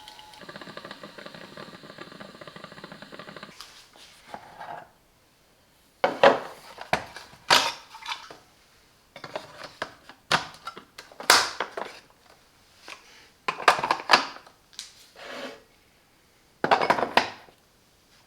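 A cordless coffee machine's steady whirring hum cuts off about three and a half seconds in. It is followed by a string of loud, sharp clattering knocks, like hard plastic and crockery being handled.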